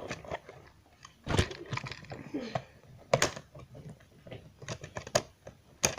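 Toy train track pieces being handled and fitted together: irregular clicks and knocks, a few sharper than the rest.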